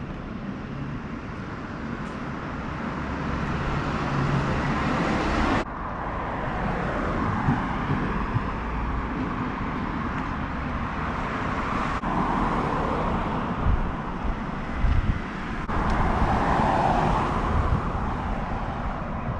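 Steady road-vehicle noise, a low rumble with a hiss of tyres and wind, broken by two abrupt edits about six seconds in and again about ten seconds later.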